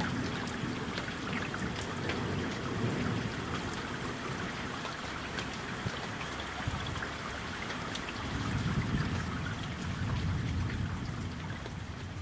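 Summer thunderstorm: steady rain with single drops ticking close by, and a low rumble of thunder that swells about eight seconds in and fades near the end.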